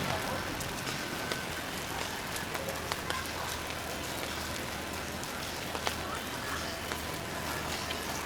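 Steady rain falling on a city street, with scattered sharp ticks of individual drops hitting close by.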